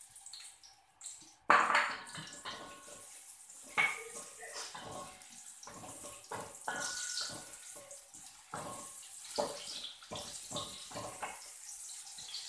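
Sliced shallots sizzling in hot cooking oil in a wok, with a wooden spatula scraping and knocking against the metal as it stirs. The sizzle surges loudly about a second and a half in, then settles into a steady hiss broken by the spatula's strokes.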